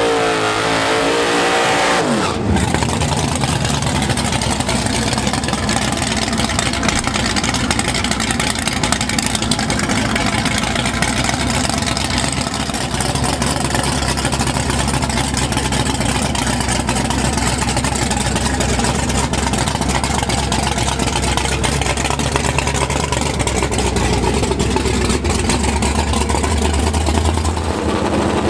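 Drag-race car engine revving with rising pitch, then, about two seconds in, a sudden change to a loud, steady engine drone.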